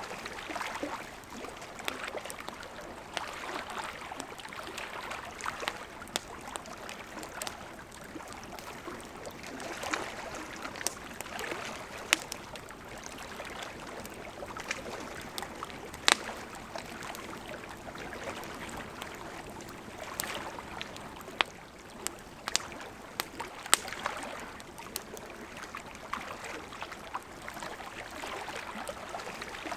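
Campfire crackling, with scattered sharp pops, a few much louder than the rest, over the steady rush of a gently flowing river.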